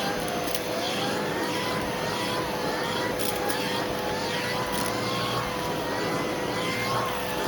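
Hoover vacuum cleaner running with its hose tool in use: a steady motor hum under a higher airflow whine that wavers up and down in pitch.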